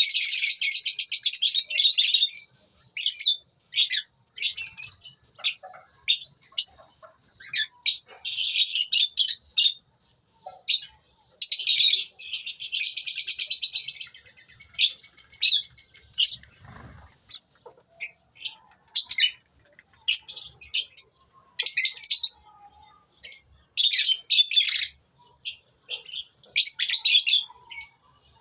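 A colony of lovebirds chattering, with many high-pitched calls in quick bursts. The longest runs last a second or two, with short pauses in between.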